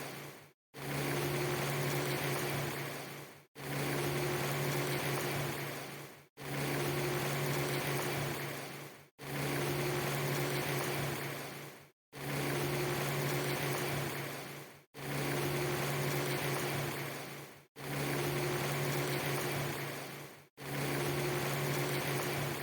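Steady noise with a low hum underneath, which the title sells as rain. A short stretch of it is looped about every three seconds, and each repeat fades out into a brief dropout of silence before starting again.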